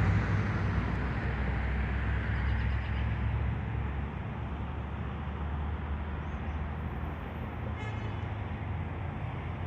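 Road traffic noise: a vehicle passing by and fading away over the first few seconds, over a steady low rumble of traffic.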